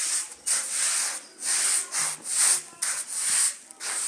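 A wet carpet being scrubbed by hand with washing powder and detergent: rhythmic back-and-forth scratchy scrubbing strokes, about two to three a second, cut off abruptly at the end.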